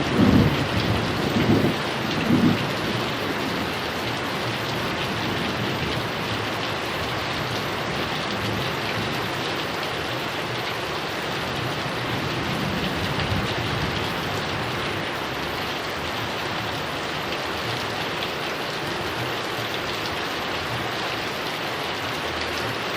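Heavy rain pouring steadily, an even hiss. The tail of a thunder rumble dies away in the first two seconds or so.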